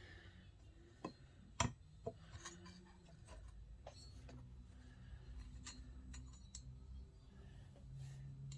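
Faint, scattered clicks and clinks of small metal chainsaw parts being handled and fitted during reassembly, over a low steady hum.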